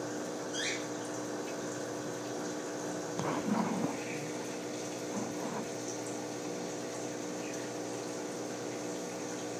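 Aquarium filter pump humming steadily with water running through it. A short, louder muffled sound comes about three seconds in.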